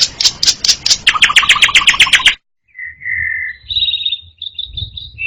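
Asian pied starling (jalak suren) singing: a fast run of sharp repeated notes, about eight a second, that cuts off abruptly a little over two seconds in. After a brief gap comes a held whistle, then a string of varied warbling notes.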